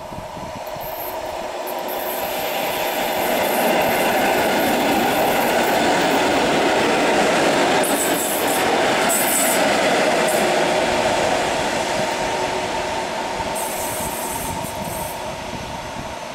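EN61 electric multiple unit passing by on the rails, its running noise swelling to a peak midway and fading as it draws away, with several brief high squeals from the wheels.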